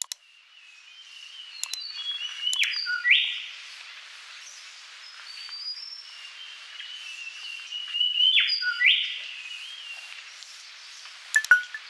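A bird whistling and chirping in repeated phrases, its loudest note a quick rising sweep that comes twice. A few sharp clicks fall in among the song.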